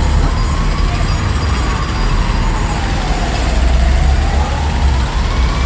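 Recorded city-street sound of a jackhammer pounding amid traffic, with a siren wailing slowly up and down over it.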